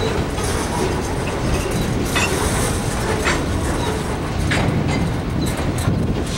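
Freight train rolling past at close range, a steady rumble of cars and wheels on the rails, with a few short, sharp high-pitched wheel noises about two, three and four and a half seconds in.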